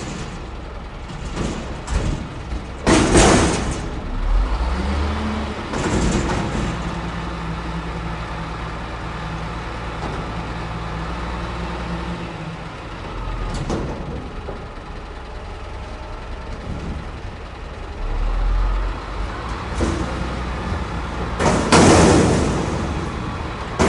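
Heavy truck with its engine running, a low steady rumble, with two loud bursts of noise: one about three seconds in and a longer one near the end.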